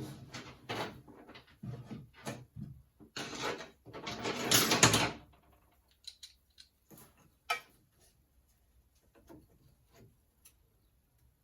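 Parts being handled by hand: a run of light clicks and knocks, then a louder scraping rustle lasting about two seconds, then a few scattered clicks.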